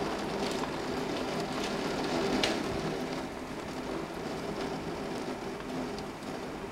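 Heavy thunderstorm rain and wind gusts beating against a window: a steady rushing noise with scattered sharp taps on the glass, the strongest about two and a half seconds in.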